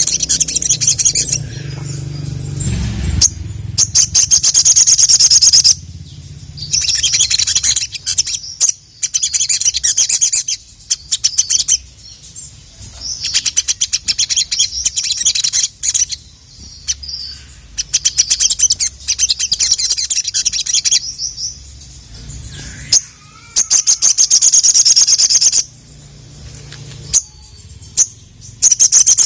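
Little spiderhunter (sogon, sogok ontong) singing: loud bursts of very rapid, high, ticking trills, each lasting a second or more, repeated again and again with short pauses between.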